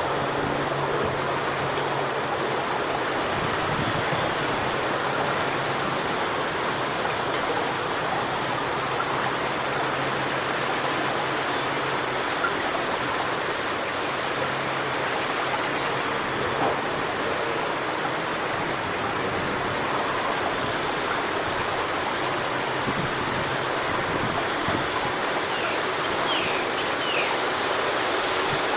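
Strong wind rushing steadily through coconut palm fronds, a continuous rustling hiss with no breaks.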